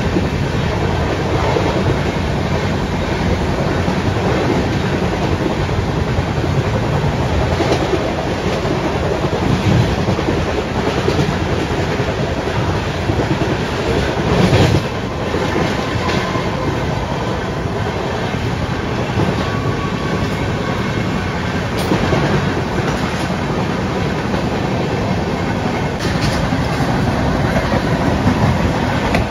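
Running noise of a train at speed heard from its open doorway: a loud, steady rumble and clatter of wheels on rail, with clickety-clack over the joints and a brief louder surge about halfway through.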